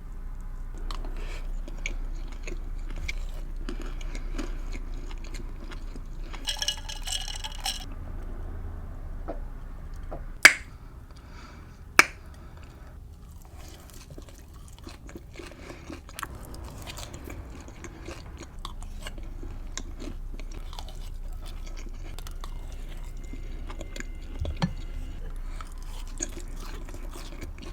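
Close-miked chewing of ground turkey meatballs: soft wet chewing with small mouth clicks throughout. Two sharp clicks stand out, about ten and twelve seconds in.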